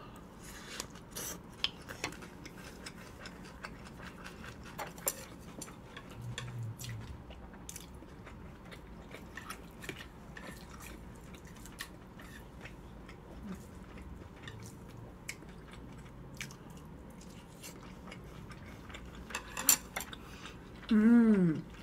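Close-miked chewing of a mouthful of garlic-chive bibimbap, with many small wet mouth clicks and ticks. Near the end there is a short hummed "mm" that falls in pitch.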